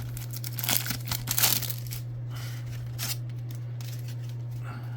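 Plastic wrapper of a trading-card pack being torn open and crinkled, with irregular crackling strongest in the first second and a half and then fainter handling. A steady low hum runs underneath.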